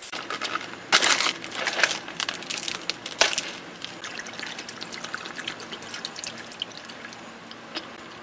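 Liquid being poured in a few uneven splashing bursts in the first three seconds, then settling into scattered small trickles and drips.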